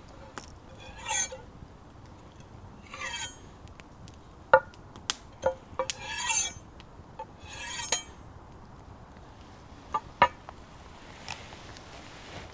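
Food-preparation handling sounds: about four short rasping scrapes, with sharp clinks and taps of utensils or cookware in between and two more taps near the end.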